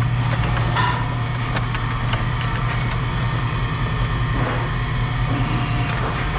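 An engine running steadily with a low hum, with scattered short clicks and knocks over it.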